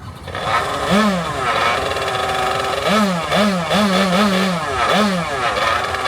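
Motorized surfboard engine running, revved in a series of short throttle blips that rise and fall in pitch, about six times.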